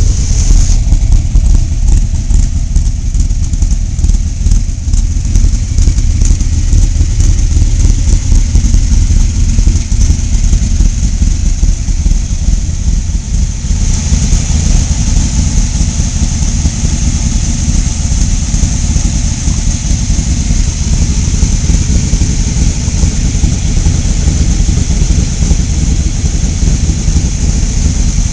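Aluminum-block 427 V8 of a Superformance Cobra replica running loud and steady just after being started, its sound shifting slightly about halfway through.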